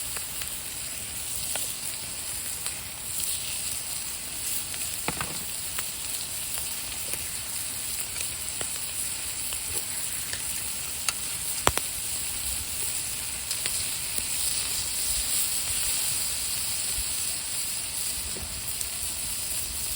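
Food sizzling steadily on a hot iron griddle, with scattered sharp pops of spitting fat, one louder pop a little before the middle.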